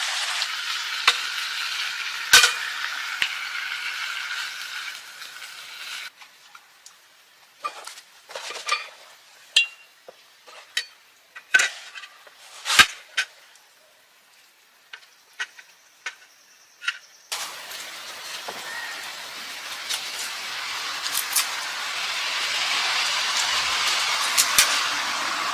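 A steady hiss cuts off abruptly, leaving a quiet stretch of scattered clinks and knocks of cooking utensils and pots. After about eleven seconds the steady hiss returns just as abruptly.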